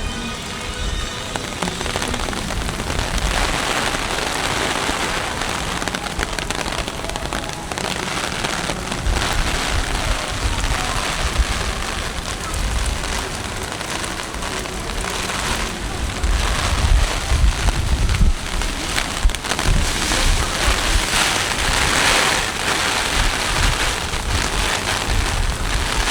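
Heavy typhoon rain pouring down in a steady hiss, with gusts of wind rumbling on the microphone in several uneven surges.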